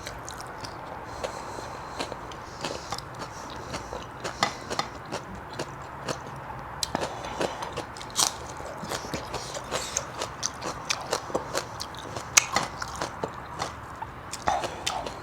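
Close-miked eating sounds: chewing and crunching of food, an irregular run of many short crisp clicks.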